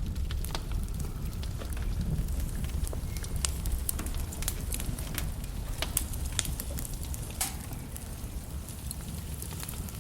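Log fire crackling, with irregular sharp pops and snaps over a steady low rumble of the flames.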